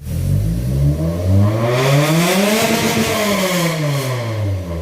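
Car engine revving up and back down in one smooth sweep, its pitch climbing to a peak about three seconds in and then falling away.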